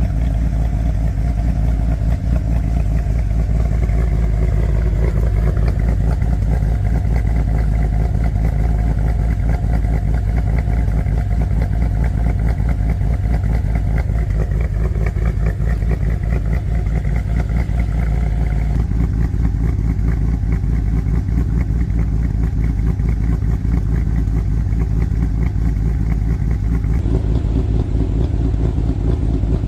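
RAM 2500's 6.4 HEMI V8, fitted with an FRP Hellfire 2.0 camshaft, idling steadily through a Karnage performance muffler with a deep exhaust rumble. The sound turns duller about two-thirds of the way through, and again near the end.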